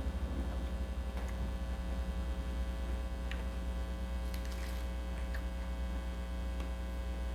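Steady electrical mains hum throughout, with a few faint, short crunching clicks from chewing crispy chicharon bulaklak.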